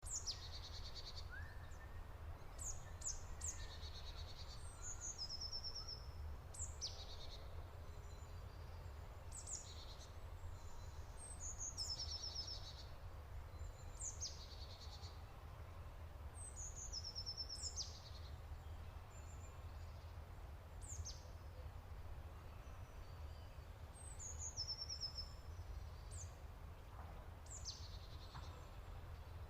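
A songbird singing a repeated high phrase, a quick falling note followed by a short fast trill, every couple of seconds, over a steady low rumble.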